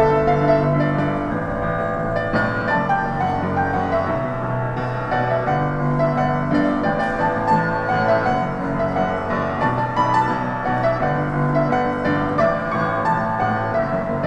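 Solo piano played continuously, a busy melody over a moving bass line with many notes in quick succession.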